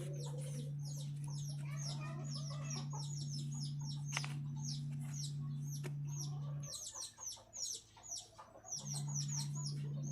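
Small birds chirping over and over in quick high calls, with a few lower clucks early on. Under them a steady low hum cuts out sharply about two-thirds of the way in and comes back near the end.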